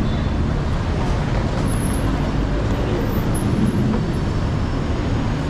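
Steady road traffic noise: a dense rumble of vehicle engines and tyres, with no single event standing out.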